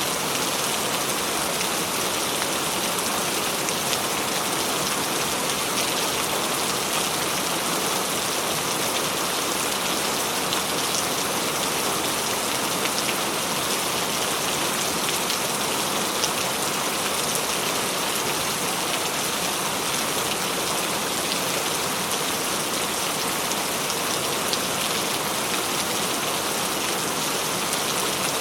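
Steady heavy rain falling on surfaces, a dense even hiss with scattered individual drop ticks.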